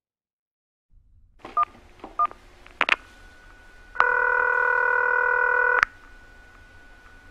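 Mobile phone placing a call: two short keypad beeps, a couple of sharp clicks, then a loud tone about two seconds long, after which a faint steady tone holds.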